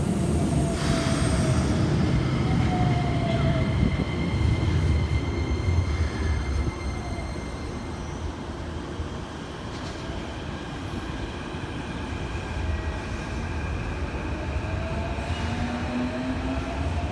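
Keikyu 1000 series electric train pulling out of the platform: a heavy rumble of wheels on the rails with faint motor whine tones rising in pitch. The rumble is loudest in the first half and then drops away.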